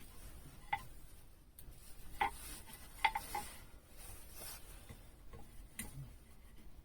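A handful of light, sharp clicks and taps of hard objects being handled, irregularly spaced, with a cluster of three about three seconds in.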